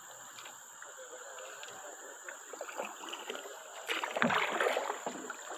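Water lapping and splashing around a kayak on a flowing creek, with a louder burst of splashing about four seconds in.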